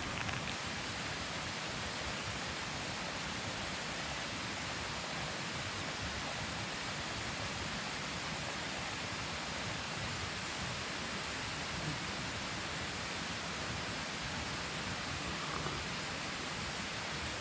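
Mountain stream water rushing steadily, an even hiss that holds unchanged throughout.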